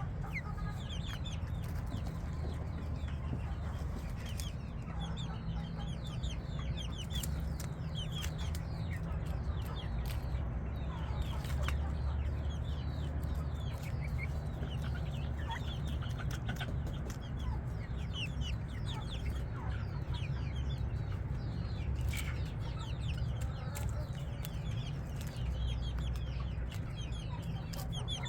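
Chickens clucking, with many short, high, falling peeps throughout, over a steady low rumble.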